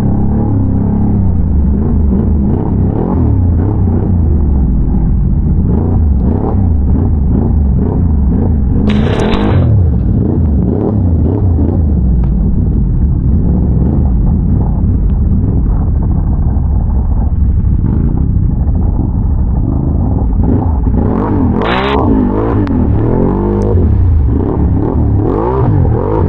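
Can-Am Renegade big-bore V-twin ATV engine running under way, its pitch rising and falling over and over as the throttle is worked, fastest in the last few seconds. Brief rushes of noise come about nine seconds in and again near the end.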